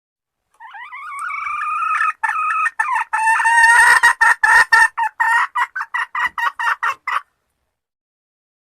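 Junglefowl hen calling to attract a male: a drawn-out call about a second and a half long, then a rapid run of short clucking notes, about four a second, that stops abruptly.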